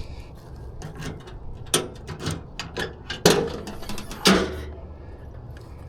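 A run of sharp clicks and knocks from handling parts of a JCB 55Z mini excavator before it is started, the two loudest about three and four seconds in.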